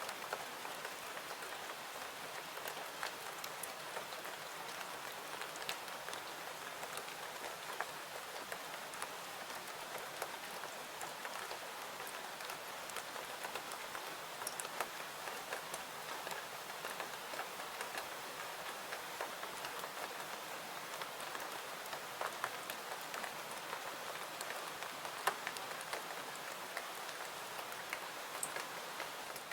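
Steady rain falling: an even hiss with many scattered light drop ticks and small pops throughout.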